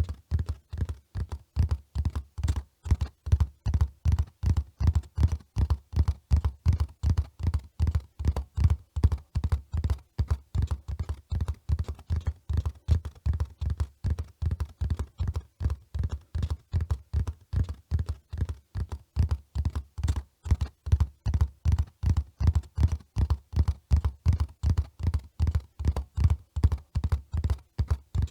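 Horse hoofbeats at a steady running pace: an unbroken, even rhythm of dull low thuds, about three a second.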